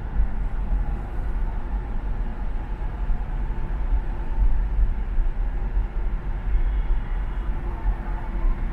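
Car driving at speed on an expressway: a steady low rumble of engine and tyres on the road surface, with a few faint steady tones.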